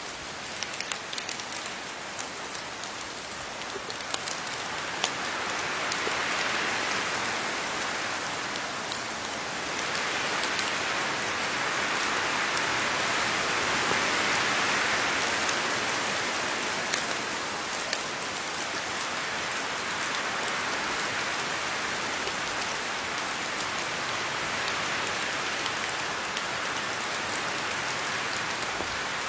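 Steady rain falling on leaves, a dense patter with scattered individual drop ticks, swelling louder for a while in the middle.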